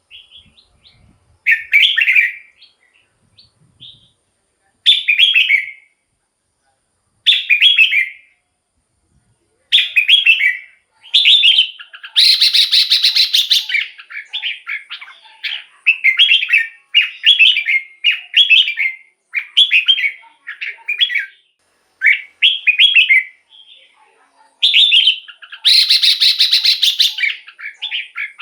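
Red-whiskered bulbul singing short whistled phrases, a few seconds apart at first and then almost without pause from about ten seconds in, with two longer, harsher phrases among them.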